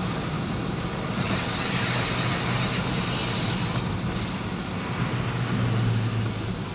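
Motor vehicle engine running steadily with road noise, and a rushing hiss that swells about a second in and fades near four seconds.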